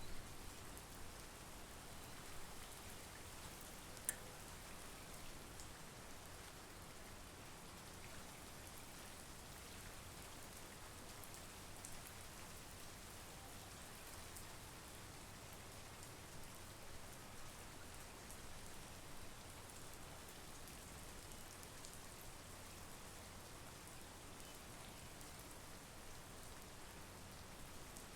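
Quiet, steady monsoon rain falling, with scattered drop ticks and one sharper tick about four seconds in.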